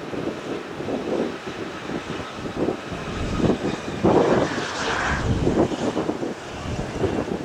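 Airliner's engines passing on landing, swelling to their loudest about four to five seconds in with a whine over the rumble, while strong wind buffets the microphone.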